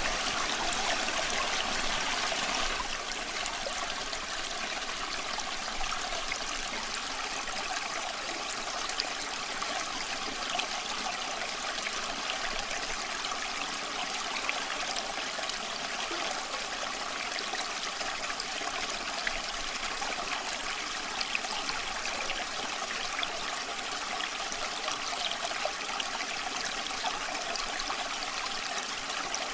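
A creek flowing steadily, slightly louder for the first couple of seconds, with faint scattered crackles from a campfire.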